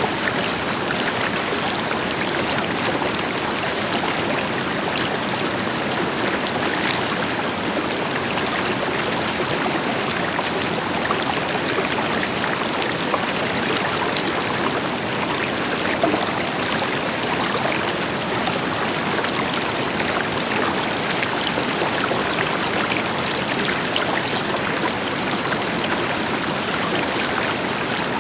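River water flowing steadily over stones, a continuous rushing with small splashes and trickles throughout, a waterfall's deeper rush blended in.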